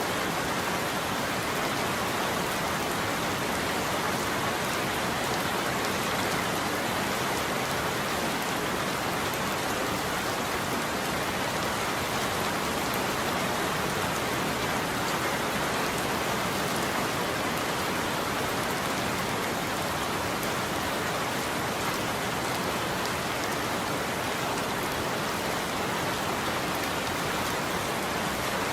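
Steady heavy rain falling on a surface, an even hiss of drops with no thunder or change.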